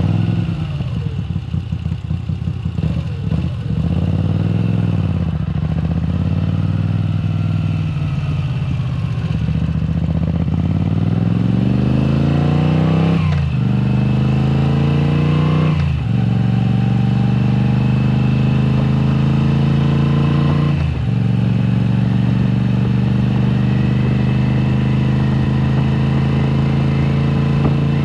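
Moto Guzzi V7 Special's air-cooled V-twin through a Mistral exhaust with the dB killers removed, running just after starting, then pulling away. The engine note climbs steadily, drops sharply at two upshifts about halfway through, dips once more, then settles into a steady cruise.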